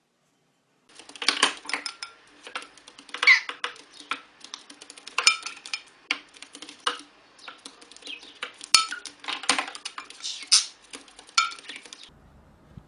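Irregular clinking and clattering of small hard objects, like dishes or cutlery knocking together. It starts about a second in and stops near the end.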